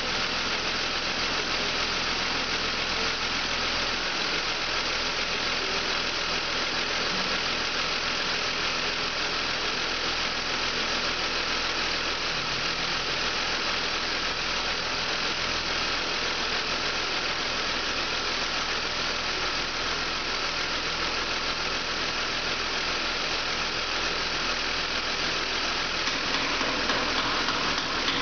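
BMW 528i wagon engine idling steadily during a test run of the used engine, getting slightly louder near the end.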